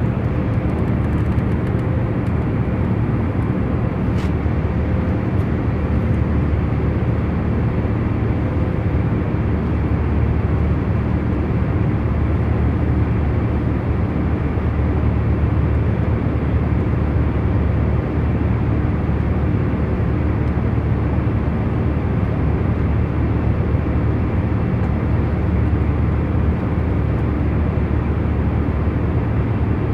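Steady, even hum and rumble of an airliner cabin in cruise, with a few faint steady tones in the low range. A faint tick about four seconds in.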